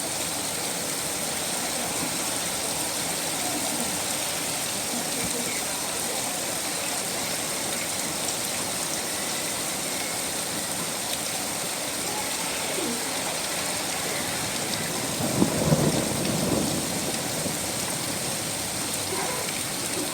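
Steady rain falling, with a short rumble of thunder about fifteen seconds in that is the loudest moment.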